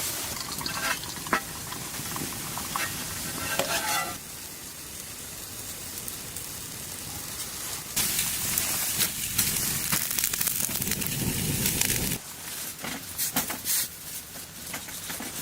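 Food sizzling in a pan on a stove, with short clicks and scrapes of a utensil stirring it. The sizzle grows louder for a few seconds in the middle.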